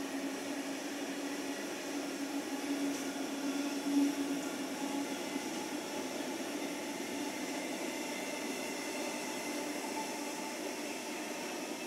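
Long intermodal freight train of container wagons rolling past: steady wheel-on-rail running noise with a low hum, swelling briefly about four seconds in.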